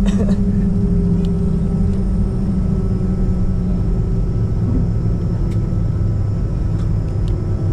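Airliner engine drone heard inside the passenger cabin: a steady low hum with a few faint ticks, as the plane lands.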